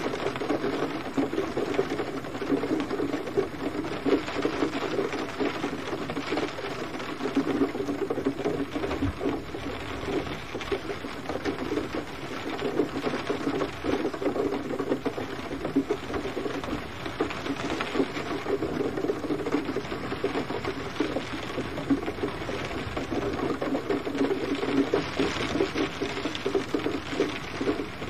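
Steady gentle rain: a dense, continuous patter of drops striking a surface.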